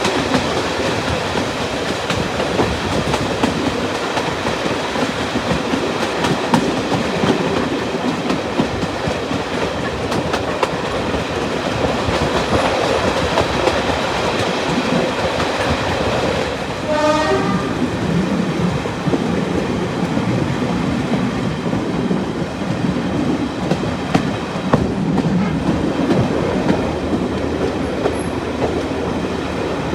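A heritage diesel-hauled passenger train on the move: steady running noise with the wheels clicking over the rail joints, and a short horn blast about 17 seconds in.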